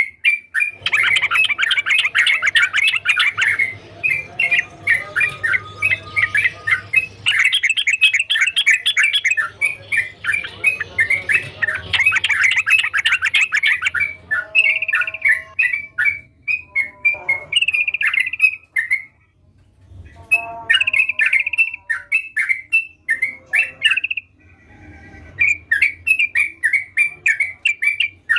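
Sooty-headed bulbul singing: a long, fast run of chattering notes for about the first half, then separate short whistled phrases broken by brief pauses.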